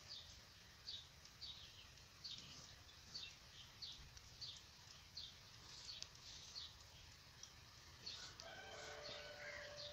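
Near silence with faint bird chirps repeating about twice a second, and a distant rooster crowing near the end.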